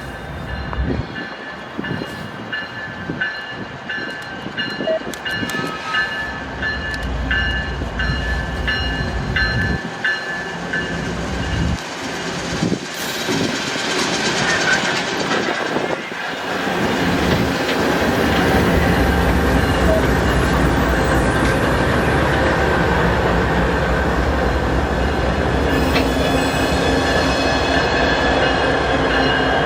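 A train passing, its rumble growing louder about halfway through and then holding steady and loud, with some steady high tones over it.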